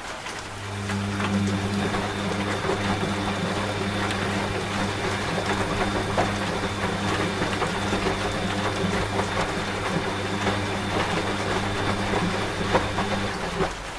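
Washing machine motor running with a steady, even hum that starts about half a second in and cuts off shortly before the end, over continuous rain.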